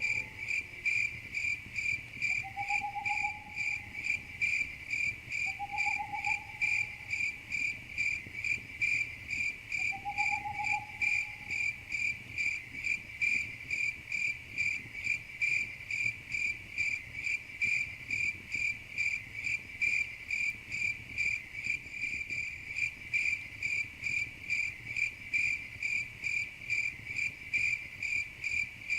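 Crickets chirping in a steady, even rhythm of about two to three chirps a second. Three faint, short whistle-like calls are heard in the first ten seconds.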